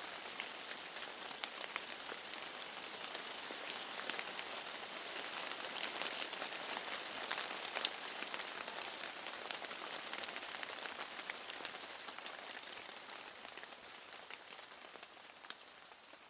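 Steady rain with many separate drops ticking through the hiss; it gradually fades down over the last few seconds.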